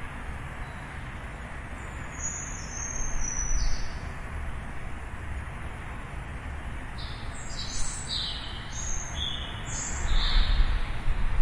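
Small birds chirping in short high notes: one brief cluster a few seconds in, then a busier run from about seven seconds. Underneath is a steady low rumble of city traffic.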